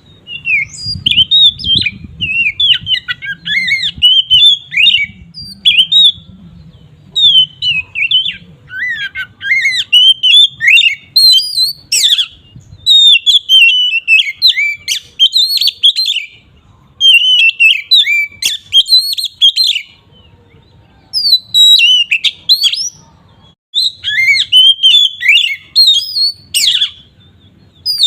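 Oriental magpie-robin (kacer) in full, open song (ngeplong): loud, rapid runs of varied whistles, trills and chattering notes, broken by brief pauses.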